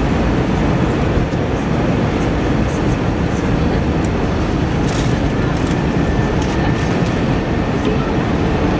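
Steady cabin noise of an Airbus A321 airliner, a deep, even rush of engine and airflow sound heard from inside the passenger cabin.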